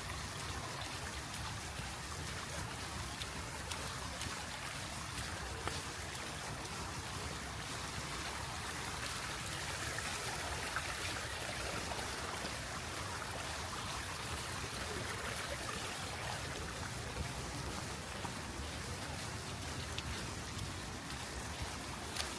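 Steady rain falling with water running and trickling, an even hiss with a low rumble underneath.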